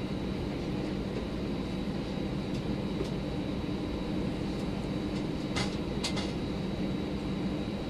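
Steady cabin noise inside an Airbus A319 with its jet engines running: an even low rumble with a constant hum and a thin high whine over it. About two-thirds of the way through come two short clicks.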